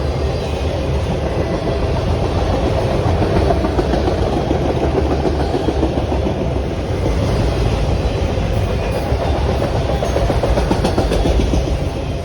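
Train passing close by, its cars rolling steadily over the rails with a continuous loud rumble and clickety-clack of wheels.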